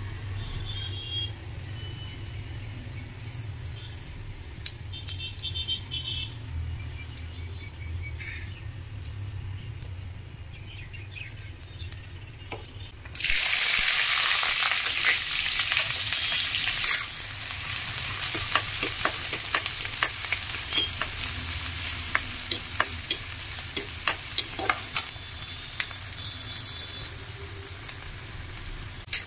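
Cumin seeds sizzling in hot oil in an aluminium kadai. About thirteen seconds in, chopped onion and green chilli hit the oil with a sudden loud hiss. A few seconds later this eases into a steady frying sizzle, with the clicks of a steel ladle stirring and scraping the pan.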